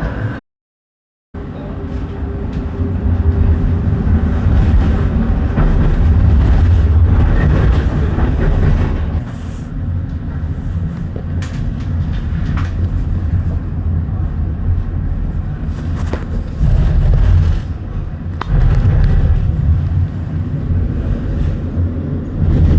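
Tram running along its rails: a steady low rumble with scattered clicks and rattles, after a brief cut to silence about half a second in.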